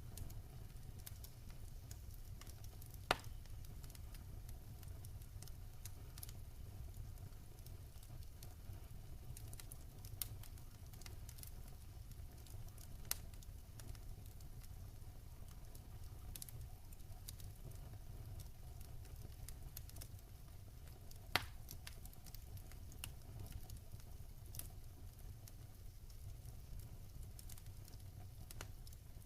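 Wood fire crackling: scattered small crackles, with sharp louder pops about 3 and 21 seconds in, over a steady low rumble.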